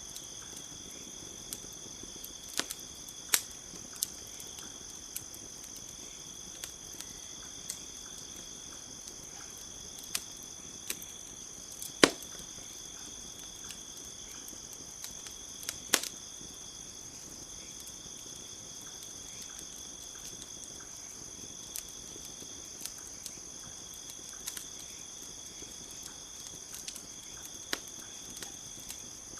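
Campfire crackling, with irregular sharp pops and snaps, the loudest about twelve seconds in and again about sixteen seconds in, over a steady high chirring of crickets.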